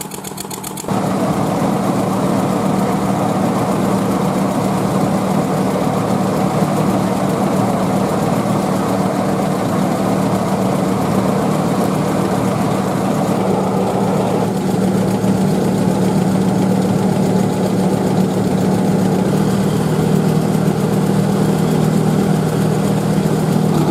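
A machine running steadily with a continuous low hum, stepping up louder about a second in.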